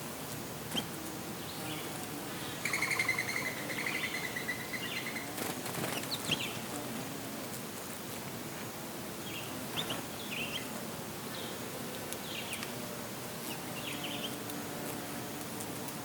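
Small birds chirping here and there over a steady background hiss, with a rapid fluttering trill about three seconds in that lasts a couple of seconds, and a brief rustle of wings or leaves near six seconds.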